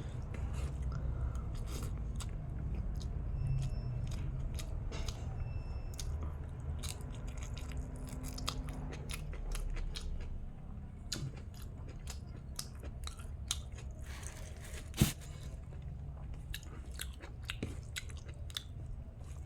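A person chewing and eating chicken biryani, with many short wet mouth clicks and crunches over a steady low hum, and one louder sharp crack about fifteen seconds in.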